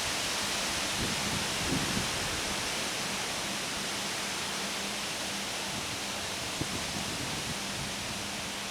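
Wind rushing steadily through trees and leaves, an even hiss that eases slightly toward the end, with a faint steady hum underneath.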